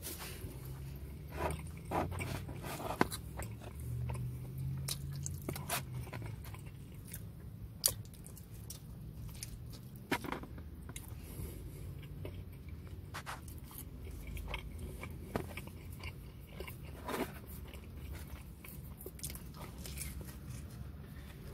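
Close-up mouth sounds of a person chewing and biting Little Caesars pepperoni pizza, with irregular wet clicks and smacks. A low steady hum runs underneath.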